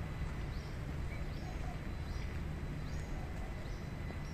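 Steady rain falling on a paved courtyard, with a small bird chirping repeatedly, short high notes about every half second to second.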